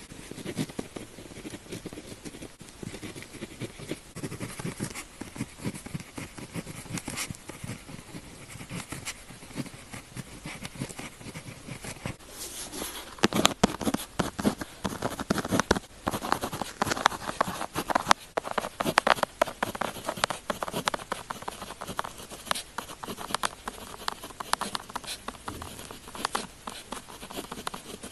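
Pen tip scratching across paper in quick writing strokes, louder and busier for several seconds around the middle.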